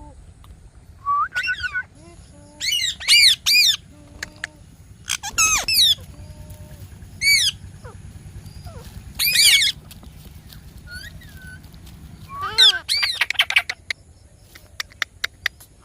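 Indian ringneck parakeet squawking: loud, high, sharp calls in short bursts of one to four, repeated several times, followed by a run of quick clicks near the end.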